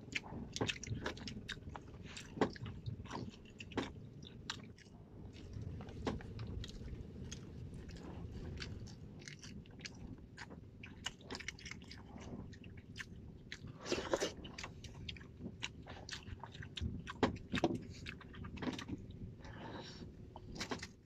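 A person chewing and biting raw sea urchin close to the microphone, with many small clicking mouth sounds.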